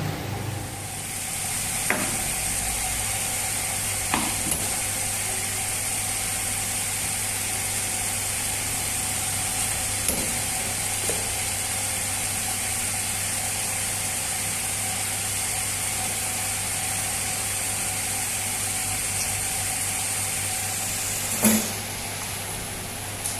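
Steady kitchen hiss and hum, with a few sharp knocks of a knife on a cutting board; the loudest knock comes near the end.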